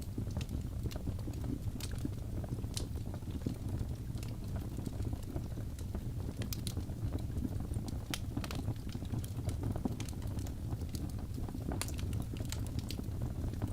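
Birch logs burning in a fireplace: a steady low rumble of the fire with scattered sharp crackles and pops.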